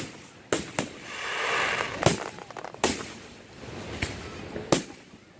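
Aerial fireworks shells bursting in a public display: about five sharp bangs spread over the few seconds, with a dense hissing crackle about a second in.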